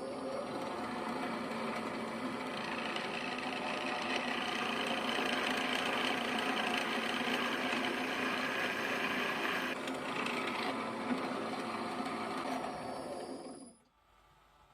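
NS12 bench drilling machine running on its new motor driven by a frequency converter: a steady mechanical hum with a thin high whine. It grows louder and rougher through the middle, then shuts off sharply about a second before the end.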